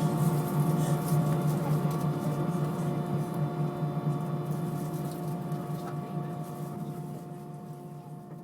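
Airliner cabin noise aboard an Airbus A320 with IAE V2500 engines: a steady hum with several steady tones from engines and air systems, fading gradually toward the end.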